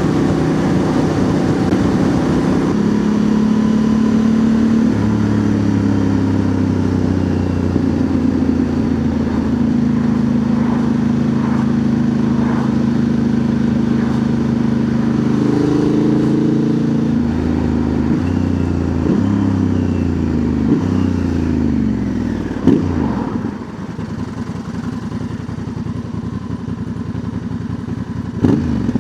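Honda Transalp's 755 cc parallel-twin engine running through a Dominator MX2 slip-on exhaust with its dB killer fitted, under way: steady engine notes that step up between gear changes, then falling in pitch through several downshifts as the bike slows, running quieter over the last few seconds.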